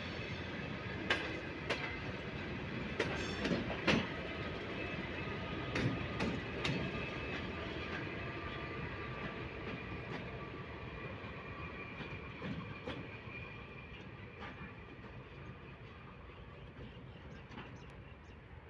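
Railway train rolling along the track, its wheels clacking over rail joints in irregular clicks with a faint thin squeal of wheels on rail. The sound grows gradually quieter over the last several seconds as the train moves away.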